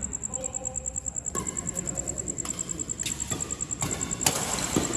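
A steady low rumble with a faint pulsing high tone, and several sharp knocks from a little over a second in, the loudest near the end.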